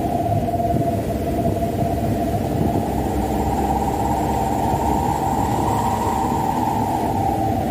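Mitsubishi Canter dump truck's diesel engine running while driving, a steady drone whose pitch sinks slightly about a second in, then rises slowly and falls again near the end.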